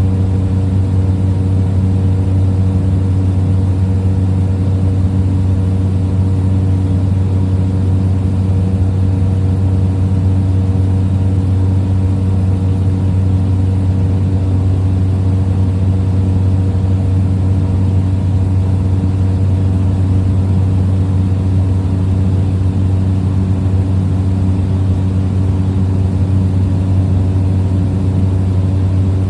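Steady drone of a small plane's engine and propeller in cruise, heard from inside the cabin: a constant low hum with higher steady tones over it, unchanging throughout.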